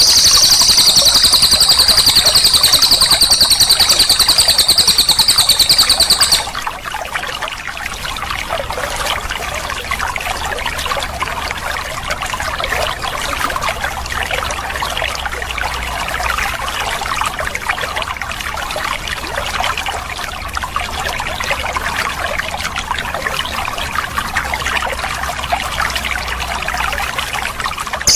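A cililin's rapid, high-pitched trill, loud and unbroken, over trickling running water. The trill cuts off suddenly about six seconds in, leaving only the steady trickle of the water.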